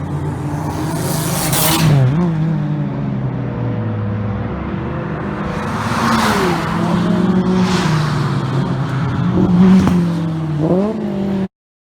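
Four-cylinder car engine and exhaust running at high revs: a 2008 Suzuki Swift Sport's 1.6-litre M16A through an R's E-202 muffler. The engine note drops briefly and climbs back three times, with swells of rushing noise in between, and the sound cuts off suddenly near the end.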